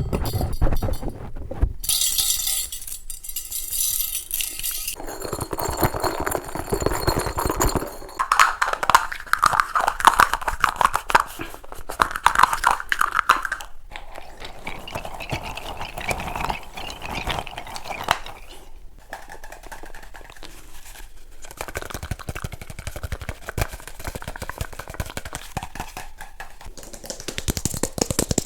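A rapid series of close-up ASMR triggers: fast tapping, scratching and handling of small objects, with the sound changing to a new object every few seconds.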